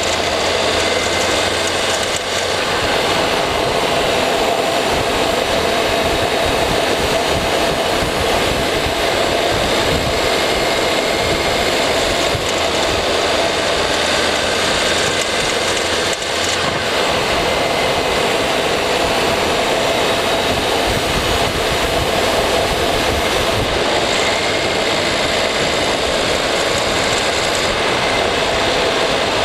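Turbocharged 2.0-litre flat-four engine of a 2015 Subaru WRX running at freeway speed in sixth gear, picked up by a microphone inside the engine bay, a loud steady mix of engine and rushing air noise with no clear change in pitch.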